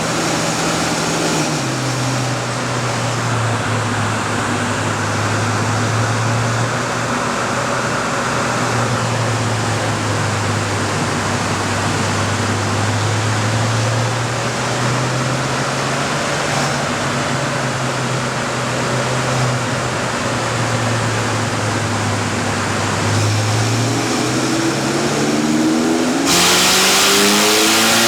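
Ferrari 458 Spider's 4.5-litre V8 running at a steady low speed on a chassis dyno, then revving up near the end with a climbing pitch, joined by a sudden loud rush of noise as the run gets under way.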